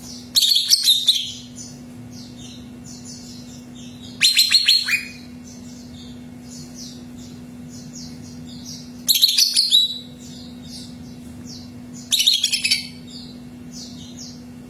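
Cucak ijo (green leafbird) singing in four loud, rapid high-pitched bursts, each about a second long, with softer high chirping continuing between them. A steady low hum runs underneath.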